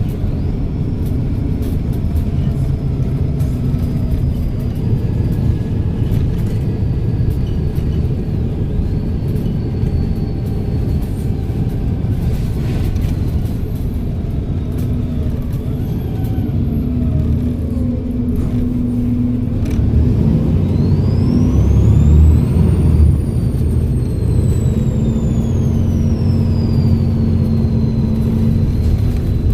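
Volvo B7RLE bus's turbodiesel engine running under way with a steady low rumble. About twenty seconds in, the turbo whistle rises steeply in pitch as the engine pulls harder, then falls away slowly over the next several seconds.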